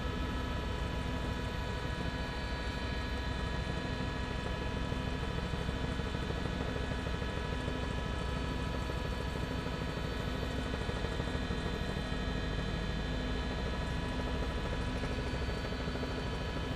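Steady helicopter noise heard from inside a news helicopter: an even drone with several constant high tones and a regular low pulsing.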